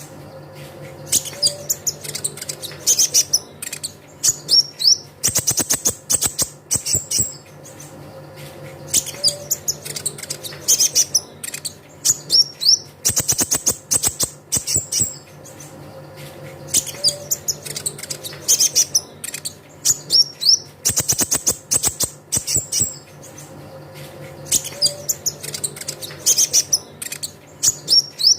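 Kolibri ninja (a sunbird) song: rapid high chirping trills and twitters in loud bursts. The same sequence repeats about every eight seconds, as a looped lure recording, over a faint steady low hum.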